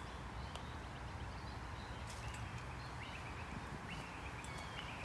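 A bird calling in the second half: a run of short, high, slightly trilled notes, some rising at the start, over a steady low background rumble.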